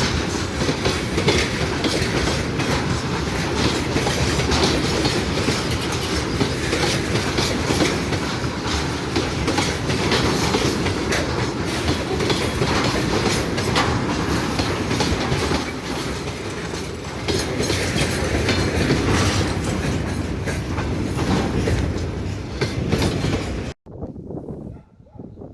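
A train rolling past close by, its wheels clattering over the rail joints. The sound cuts off abruptly near the end, leaving much quieter background.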